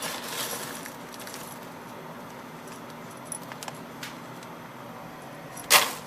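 Dry popcorn kernels rattling as they are spooned into a brown paper lunch bag, with a few small clicks and a louder rattle near the end.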